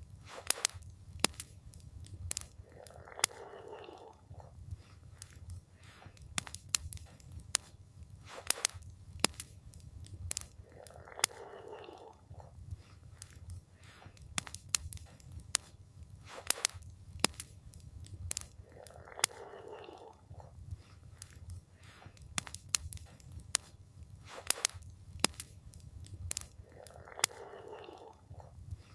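Campfire crackling, with frequent sharp pops and snaps of burning wood over a steady low rumble. A soft swell of sound comes back about every eight seconds.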